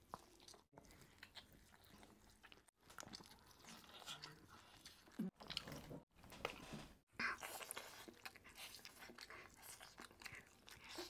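Faint close-up sounds of people biting into and chewing whole roast chicken, with small wet clicks and crunches, broken by several short silent gaps.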